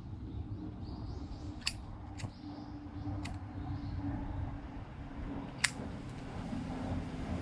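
Four sharp, separate clicks or snaps at uneven intervals over a low steady hum.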